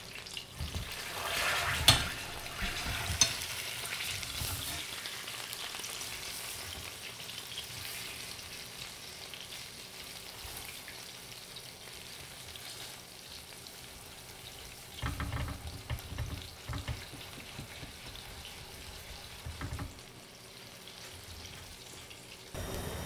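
Salmon head sizzling as it fries in a hot pan. About two seconds in the sizzle surges loudest with a couple of sharp clacks, then settles to a steady hiss. A few knocks from the fish being handled in the pan come around fifteen to seventeen seconds in.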